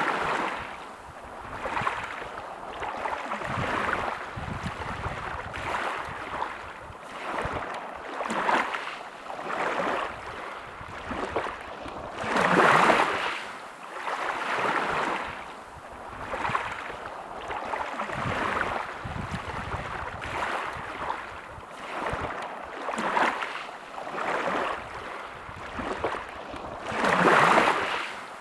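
Small sea waves washing in on the shore, a soft surge every second or two, with two bigger waves breaking about twelve seconds in and near the end.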